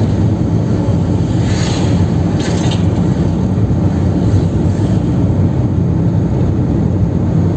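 Chevrolet Kadett 1.8 four-cylinder engine and road noise at highway speed, heard as a steady low drone inside the car, with two brief whooshes about two seconds in.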